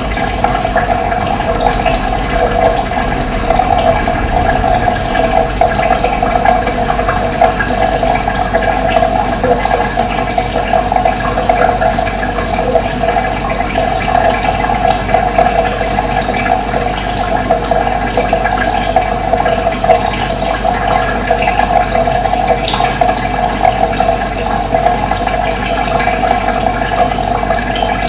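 Running water, a steady rushing flow, with short high bird chirps scattered over it now and then.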